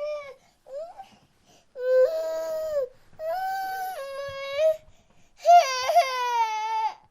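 Baby crying: two short cries, then three long held wails of a second or more each, the last the loudest.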